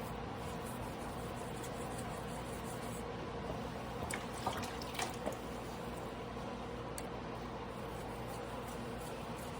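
Water running steadily from a tap into a sink, with a few light clicks and knocks about four to five seconds in.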